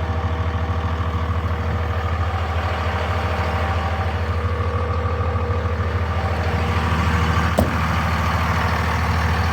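Cummins 5.9-litre inline-six turbo diesel of a 2002 Dodge Ram 2500 idling steadily, with a single brief click late on.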